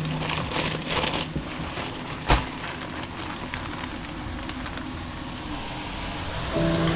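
Food frying in a hot pan, a steady sizzle with many small crackles. A single sharp knock about two seconds in is the loudest sound.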